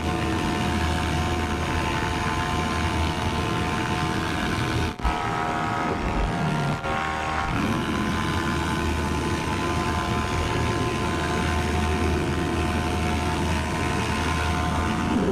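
Paramotor's motor and propeller running steadily in flight, with a brief dip about five seconds in.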